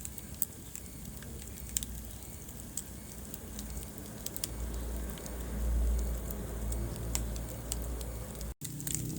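Wood fire crackling in a fireplace: irregular sharp pops and snaps over a low, steady rumble of flames. The sound cuts out for an instant near the end.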